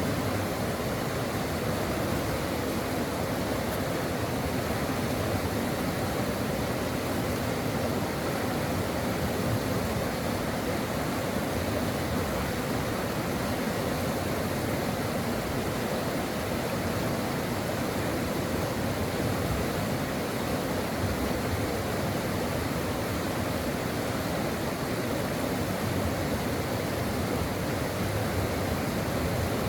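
A stream flowing steadily, an even, unbroken rush of water.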